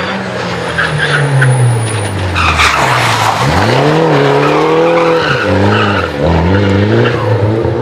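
Rally car engine driven hard: the revs fall for a couple of seconds as it brakes, then climb again in several rising sweeps with short drops between them as it accelerates up through the gears. There is a brief burst of tyre noise around the low point.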